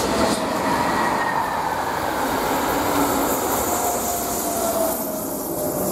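A passenger train's coaches rolling past on the track: a steady rush of wheel-on-rail noise with thin squealing tones, one falling slightly in pitch. The sound eases near the end as the rear of the train moves away.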